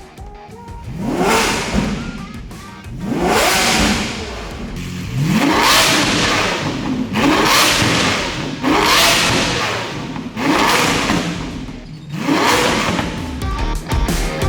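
Supercar engine with an aftermarket Novitec full exhaust being revved hard, about seven sharp blips, each pitch climbing quickly and then dropping off.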